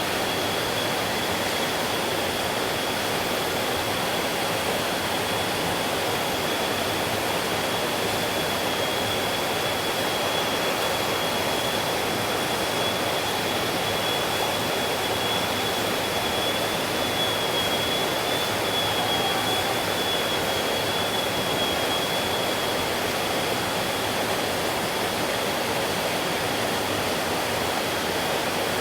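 Stream water rushing steadily, with a thin, steady high whine above the water.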